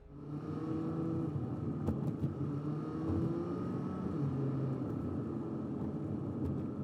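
Motor vehicle traffic: engines running steadily nearby, starting abruptly at a cut, with a few faint clicks.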